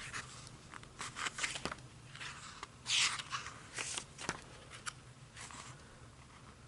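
Pages of a paperback graphic novel being leafed through and handled: faint paper swishes and short clicks, the loudest rustle about three seconds in.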